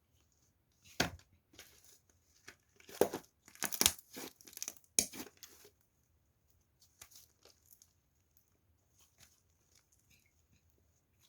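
Plastic ice-pop wrapper crinkling and tearing in a run of sharp crackles for a few seconds, then only faint rustles.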